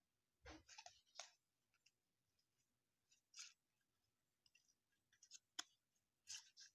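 Faint handling of baseball trading cards: a scatter of short dry scrapes and clicks as cards are slid and flipped through by hand, with one sharper click a little before the end.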